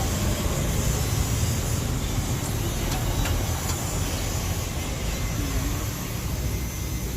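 Isuzu 6HK1 inline-six diesel engine idling with a steady low rumble, running after an overhaul for hard starting.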